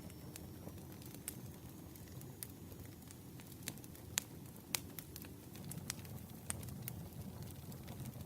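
Campfire burning: a steady low rush with scattered sharp crackles and pops, several louder pops in the middle.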